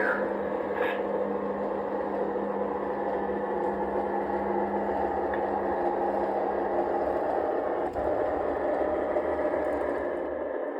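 LGB G-scale model locomotive running on garden-railway track: a steady electric-motor and gear hum over the rolling noise of the wheels, which stops about ten seconds in.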